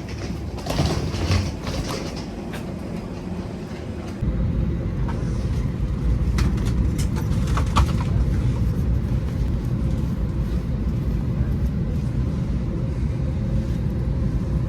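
Atlanta airport Plane Train, an automated underground people mover, running with a steady low rumble that steps up abruptly about four seconds in. A few clicks and knocks come in the first two seconds.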